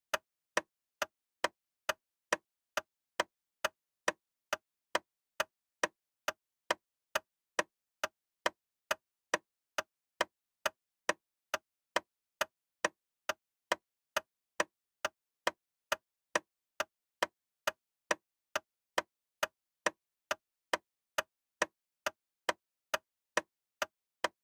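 Steady, evenly spaced sharp ticks, a little under two a second, repeating without change.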